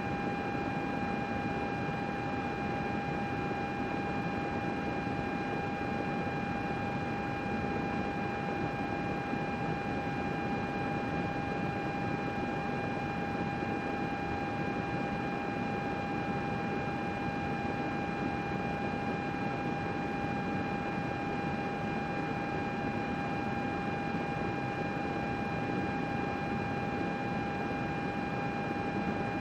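A computer running steadily: an even whoosh of fan air with a constant whine held at one pitch.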